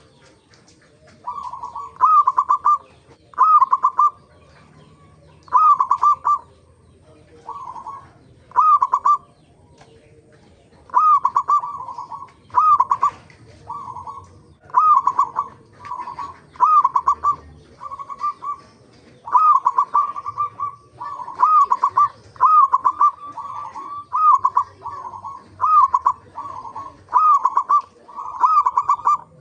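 Local zebra dove (perkutut) in full song: phrase after phrase of quick, ringing coos, one phrase every second or two, with brief pauses between.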